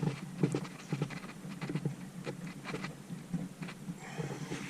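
Irregular light clicks and taps of metal parts and tools being handled while the dephaser pulley is worked off the camshaft, over a steady low hum.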